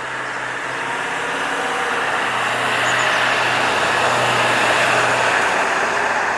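A motor vehicle driving past: a steady engine hum under tyre and road noise that swells over the first few seconds and eases slightly near the end.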